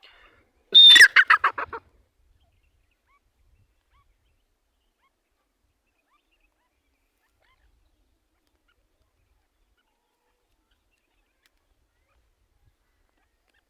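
A teetar (grey francolin) gives one loud call about a second in: a sharp high opening note, then a quick run of about eight fading notes, lasting about a second.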